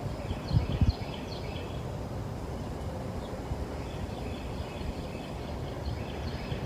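Small songbirds chirping at the feeders: clusters of short, high calls near the start and again in the second half, over a steady low outdoor rumble, with a few low thumps about half a second in.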